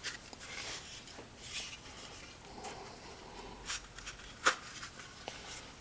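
Thin copper sheet being worked by hand into a slot in a wooden frame: faint rubbing and scraping with a few light clicks, the sharpest about four and a half seconds in.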